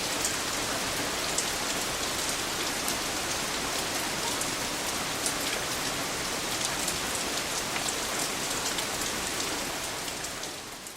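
Steady rain falling, an even hiss with scattered sharp ticks of individual drops, fading out near the end.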